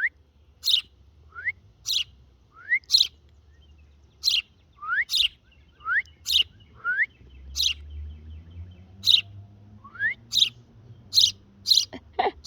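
A small bird chirping over and over: short, sharp, rising chirps, about one a second, with no pauses.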